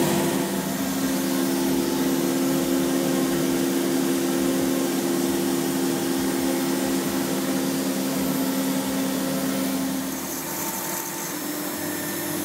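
Steady machine drone from the running MultiCam CNC router setup, holding a few steady hum tones; the hum shifts slightly in pitch about ten seconds in, with a little added hiss.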